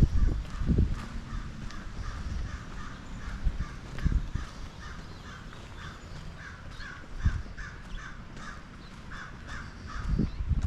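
Crows cawing in a long run of short calls, several a second, with a few low thumps of footsteps underneath.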